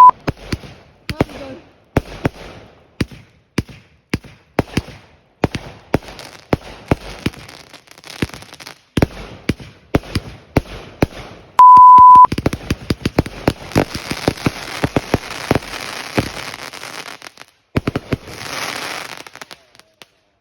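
Fireworks going off: a long irregular series of sharp bangs, with a dense crackling shower from about two-thirds of the way in and another short burst of crackle near the end. A loud, steady one-tone beep cuts in briefly about twelve seconds in.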